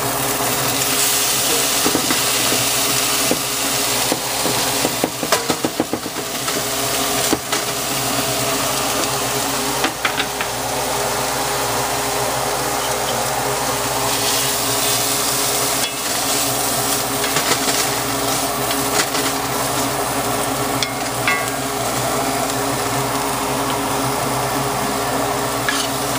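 Cubed ham and chopped onion sizzling as they fry in a cast iron skillet. A wooden spoon scrapes and knocks against the pan as they are stirred, most busily about five seconds in.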